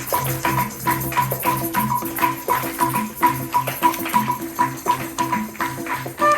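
Lively dance music driven by hand percussion: shaker-like strokes about four a second, with a steady repeating low beat underneath.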